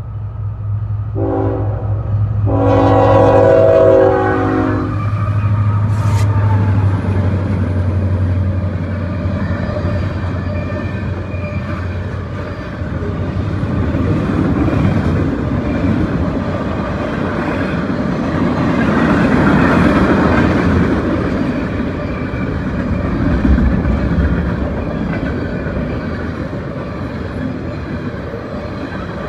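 Freight train locomotive horn sounding a short blast, then a longer one, over the diesel engine's steady low drone, which fades after about ten seconds as the locomotive passes. The freight cars then rumble and clatter over the rails.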